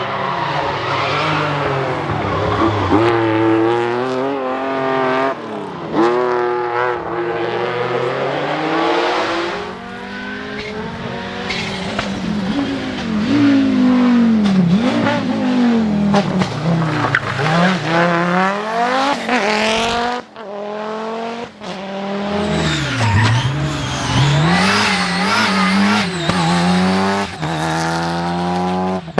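Rally car engines revving hard and passing one after another, pitch climbing and dropping through gear changes, with tyre squeal on loose surface and sharp pops on the lift-off.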